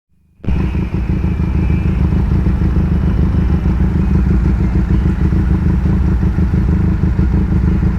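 Benelli Leoncino 500's parallel-twin engine idling steadily through an aftermarket Akrapovic exhaust, with an even, low pulse.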